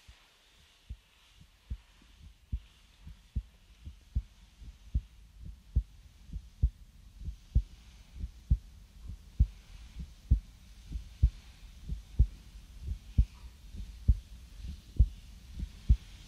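A slow, steady heartbeat, a low lub-dub double thump a little more than once a second, fading in and growing louder over the first several seconds.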